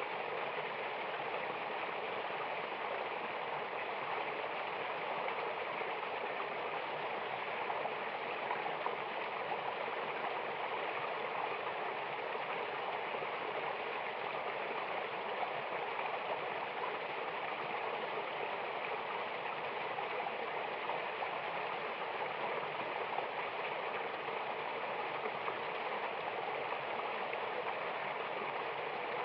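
Mountain river and waterfall water rushing in a steady, unbroken roar.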